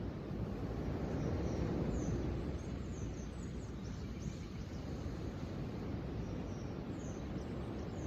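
Small birds chirping, short high chirps scattered all through, over a steady low rushing noise.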